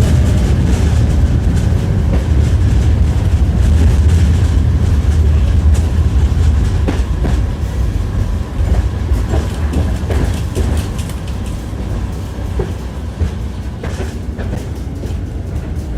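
Tram rumbling along with its wheels clattering over the rail joints, heard from inside the car. The rumble eases about halfway through, and separate knocks of the wheels over joints stand out after that.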